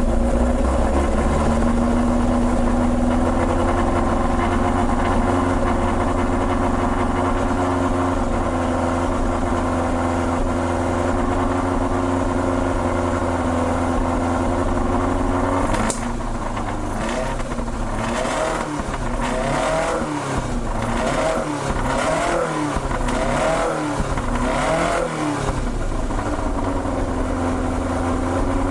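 Toyota 5-valve (20-valve) 4A-G inline-four running through an aftermarket-fitted 86/BRZ muffler: idling steadily after start-up, its idle settling a little lower in the first few seconds. In the second half the throttle is blipped several times in quick succession, each rev rising and falling, before it drops back to idle.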